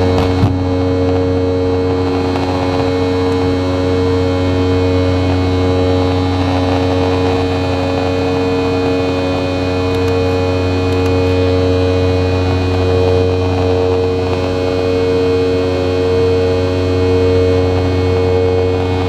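Cabin drone of a Boeing 717's rear-mounted Rolls-Royce BR715 turbofans, heard from a rear window seat and running at steady power. Several steady hum tones sit under a rushing noise, and one of them wavers slowly and evenly in level.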